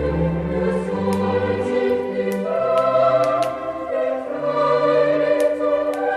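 Choral Christmas song: a choir singing sustained notes over an orchestral accompaniment.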